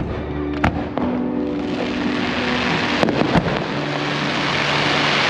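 Aerial fireworks display: sharp bangs of shells bursting, once under a second in and twice around three seconds in, over a dense hiss of crackle that builds through the second half.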